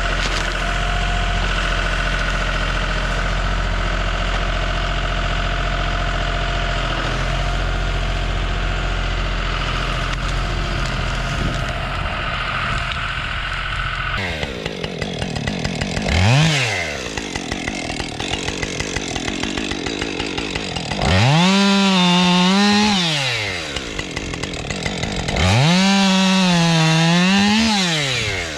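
An engine runs steadily for about the first half. Then a chainsaw revs and cuts wood, its pitch climbing to full throttle and falling back: briefly once, then in two longer cuts of about three seconds each.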